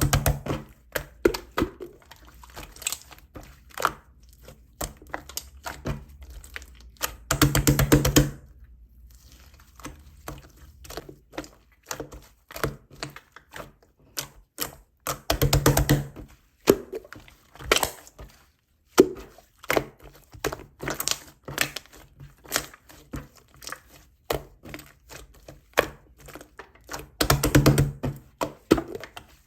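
Pastel macaron slime being played with, giving a stream of sticky clicks and pops. Four times, about every seven to eight seconds, it breaks into a second-long run of rapid crackling pops.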